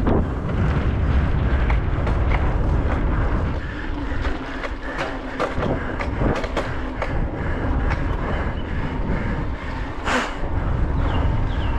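Mountain bike rattling and clattering over rough trail at speed, with many sharp knocks and a harder crack about ten seconds in, over a steady rush of wind on the microphone.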